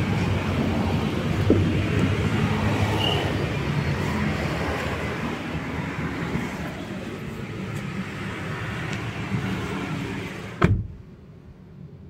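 Hyundai Stargazer's 1.5-litre four-cylinder engine idling after a remote start, a steady low hum. Near the end a car door shuts with a single thud, and the sound drops to a much quieter cabin hush.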